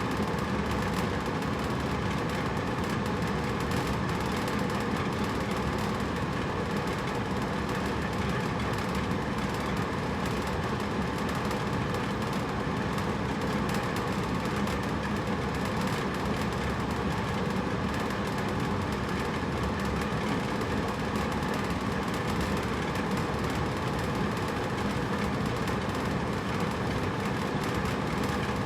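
Hotel room air conditioner running steadily, a constant whooshing noise of air with a low hum underneath.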